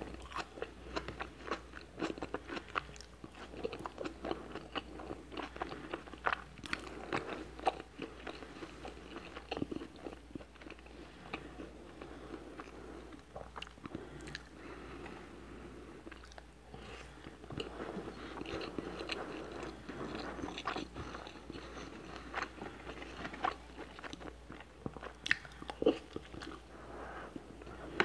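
Close-miked chewing and mouth sounds of a person eating a tomato slice and rice, with many short clicks and smacks coming irregularly.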